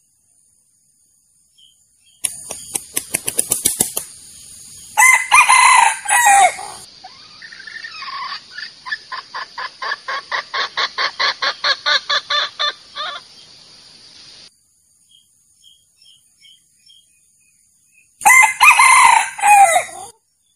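Wild junglefowl rooster crowing twice, with a rapid fluttering run before the first crow and a long series of clucks, about three a second, between the crows. These are trapping lure calls for wild roosters.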